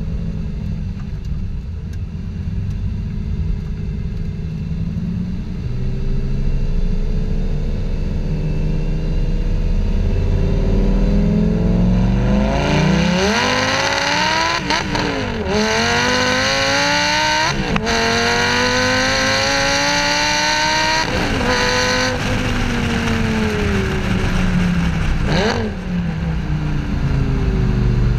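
2008 Lamborghini Gallardo Superleggera's V10 on an opened-up aftermarket exhaust, running at low revs for several seconds, then accelerating hard about halfway through with a rising pitch, cut twice by quick upshifts. The pitch then falls as it slows, with one more short break near the end.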